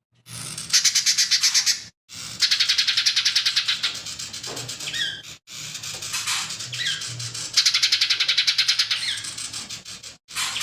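Lesser green leafbird (cucak ijo mini) singing in repeated bursts of very fast rattling trills, with a few short whistled notes between them. The song breaks off abruptly several times.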